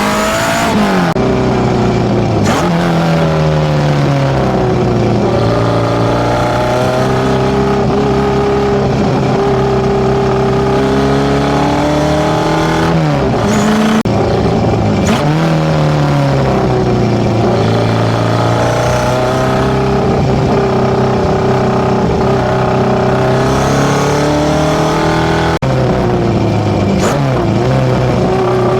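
Datsun B210's tuned A15 inline-four with FCR41 motorcycle carburettors, breathing through a one-off 54 mm stainless exhaust, running loud and under way. The engine note holds steady for long stretches, with quick rises and drops in pitch four times, near the start, twice in the middle and near the end.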